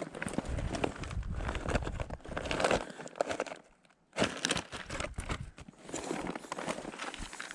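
Irregular crinkling, rustling and clicking, with a short break about four seconds in.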